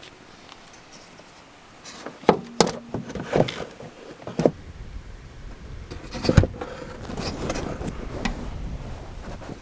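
Clicks and knocks of the Sprinter's plastic air filter housing and intake parts being handled and fitted back together, with a sharper knock about six seconds in, over a low background rumble.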